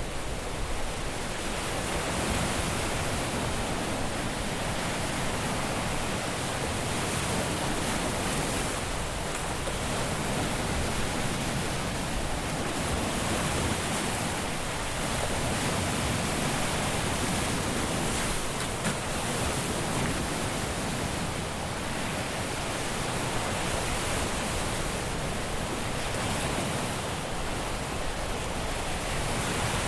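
Caribbean surf washing onto the beach, a continuous even rush of breaking waves with only gentle swells in loudness.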